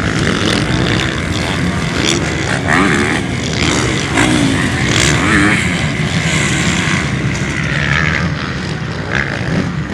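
Motocross motorcycles running hard, their engines revving up and down as they ride.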